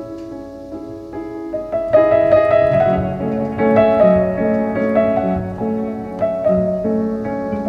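Background piano music: slow, sustained notes and chords, swelling louder about two seconds in.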